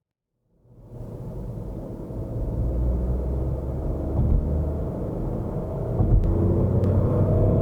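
A moment of silence, then a 2020 Ford Fiesta's 1.0 EcoBoost turbocharged three-cylinder petrol engine accelerating hard in third gear, its note rising steadily over a low road rumble.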